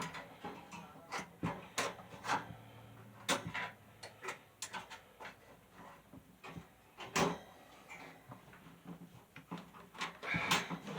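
Scattered clicks, taps and knocks of parts and tools being handled while the box fan is worked on.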